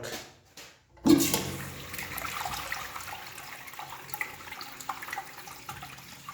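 1969 American Standard Washbrook urinal flushing: a sudden rush of water about a second in that slowly tapers off.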